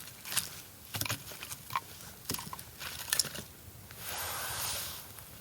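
Larch campfire crackling with sharp, irregular pops, then a hissing rush of noise about four seconds in.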